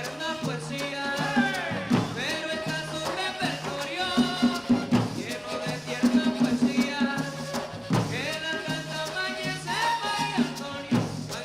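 Colombian gaita music: gaita flutes playing a sliding melody over steady drum and rattle percussion.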